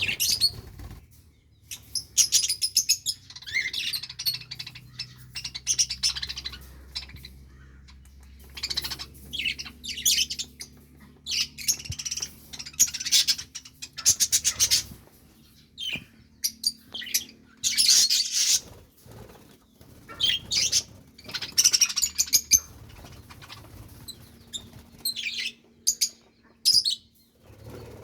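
Budgerigars chirping and chattering in repeated bouts of quick high chirps and clicks, with short pauses between.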